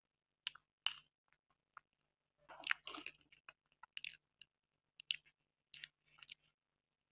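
Close-miked chewing of soft cream cake, heard as wet mouth smacks and clicks, with a denser run of chewing about two and a half seconds in.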